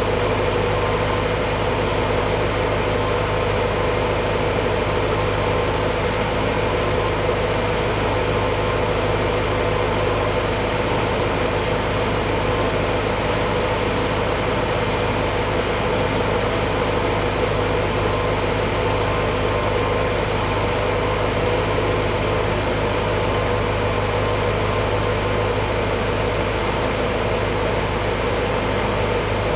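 1953 Willys CJ3A's L-head four-cylinder engine idling steadily while warming up after a cold start. The engine is nearly at operating temperature, just before the thermostat opens.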